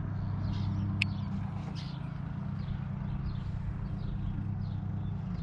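A steady low hum with many faint, short, high chirps of birds scattered over it, and one sharp tick about a second in.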